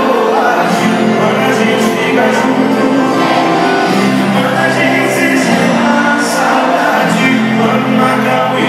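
Live sertanejo music: a band playing a song with singing over it, loud and continuous.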